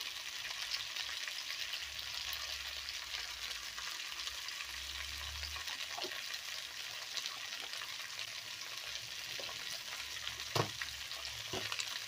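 Yellow pumpkin cubes and onion frying in oil in a kadai: a steady sizzle, with a few brief knocks from the stirring spoon near the end.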